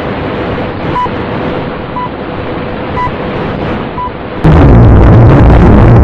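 Static-like hiss with a short beep about once a second over a faint steady tone; about four and a half seconds in it cuts suddenly to a much louder, distorted rumble.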